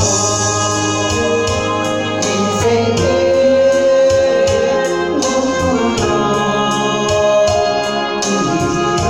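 Worship music on an organ-toned keyboard, holding sustained chords that change every few seconds over a steady bass.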